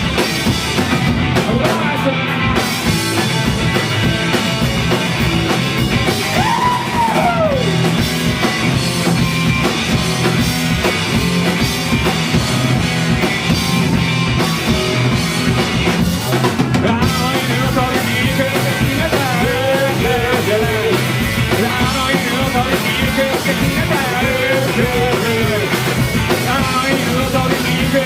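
Live rock band playing loud garage punk rock: drum kit, bass and electric guitars, with a short pitch bend about seven seconds in.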